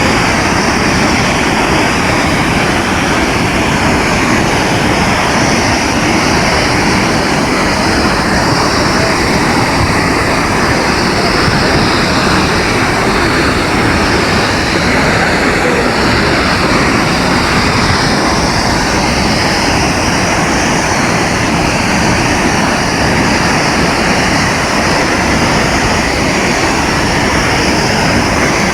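Multnomah Falls: a loud, steady rush of falling water with no change in level.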